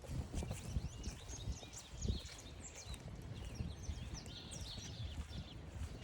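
Wind rumbling on the microphone under many short, high chirps from small songbirds, with a thump about two seconds in.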